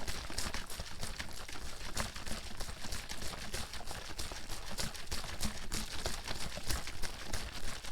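Water sloshing and splashing inside a plastic bottle shaken back and forth, with rapid, uneven knocks and splashes.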